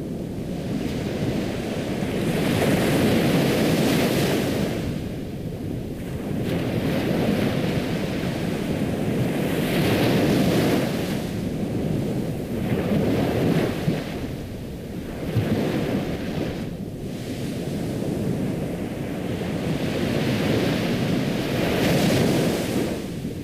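Ocean surf: waves washing onto a shore, the rush swelling and falling back about every three to four seconds.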